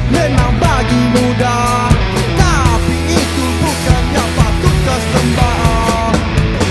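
Indie rock band playing a loud, guitar-driven passage with electric guitars, bass and drums, with sliding guitar notes over a steady beat.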